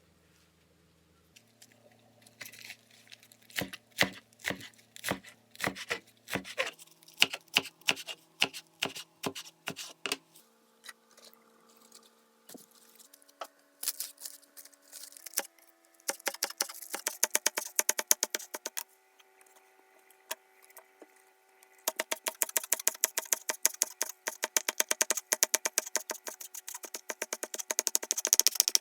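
A knife chopping on a cutting board in quick runs of sharp taps, over quiet background music of slow held notes.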